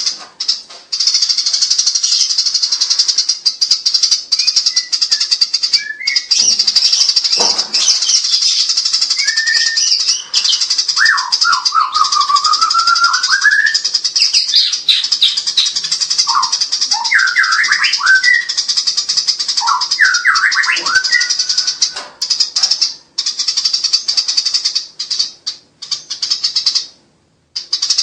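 Eurasian tree sparrows chattering in a fast, nearly unbroken high-pitched stream, the agitated calling of sparrows fighting, with a few short breaks and a longer lull near the end. In the middle stretch, lower whistled, sliding notes from another bird sound under the chatter.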